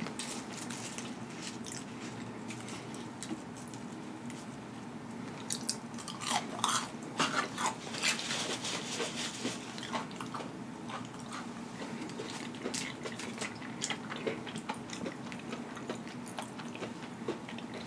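Close-miked chewing of a fried onion ring, with irregular crunches and wet mouth clicks that are busiest a few seconds in. Near the end comes a bite into a burger.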